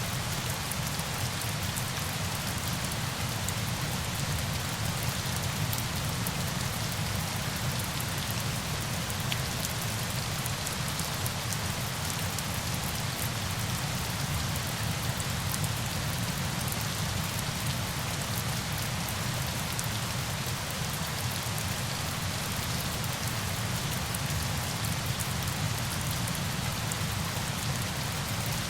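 Steady hiss of falling water, with a fine patter of drops on top; it keeps an even level throughout.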